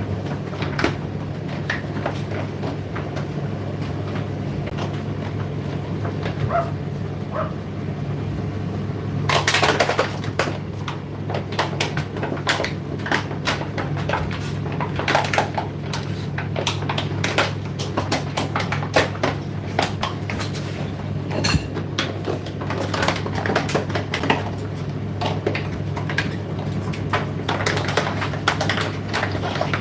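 Indesit IDC8T3 condenser tumble dryer running: a steady motor and fan hum under irregular clicks and knocks as the load tumbles in the drum, with a louder clatter about nine seconds in.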